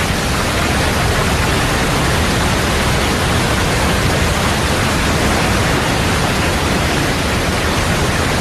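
Fast river swollen with meltwater, rushing loudly and steadily.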